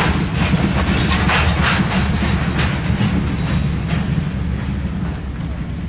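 Freight train rolling past: a steady low rumble with a run of wheel clicks over the rail joints, easing slightly near the end.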